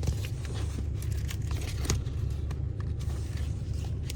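Ford AU Falcon's six-cylinder engine idling, a steady low rumble heard inside the car's cabin, with a few light clicks and rustles of things being handled.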